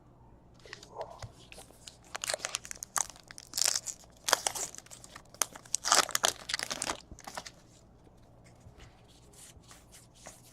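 Foil trading-card pack wrapper being torn open and crumpled: a run of crinkling tears for several seconds, then fading to faint rustling near the end.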